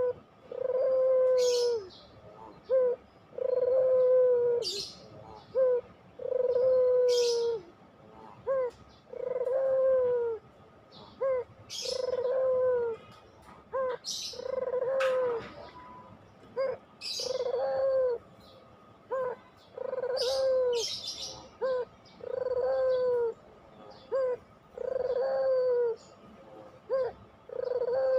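Puter pelung (domestic Barbary dove) cooing over and over: a short clipped note, then a long drawn-out coo, repeating about every two and a half seconds. Short high chirps from another small bird sound in between.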